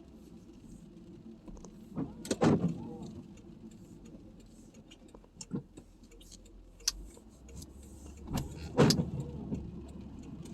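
Car cabin while driving: a steady low engine and road hum, broken by a few sharp knocks and clunks, the loudest about two and a half seconds in and again near nine seconds.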